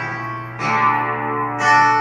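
Guitar music: a chord struck about once a second and left to ring out, over a steady low note.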